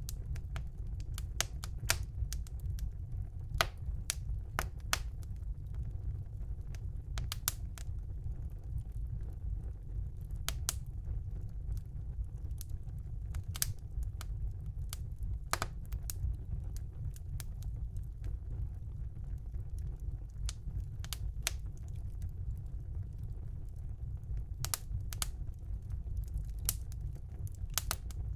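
Wood fire burning in a fireplace: a steady low rumble with irregular sharp crackles and pops from the burning logs, sometimes several in quick succession.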